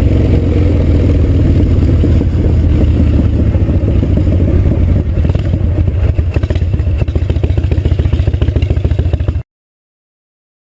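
Harley-Davidson V-twin motorcycle engine running loud, settling after a rev into an uneven, loping pulse from about five seconds in. The sound cuts off abruptly about nine seconds in.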